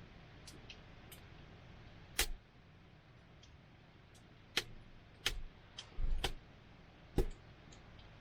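Wood campfire crackling, with irregular sharp pops and snaps over a faint steady hiss, and a dull low thud about six seconds in.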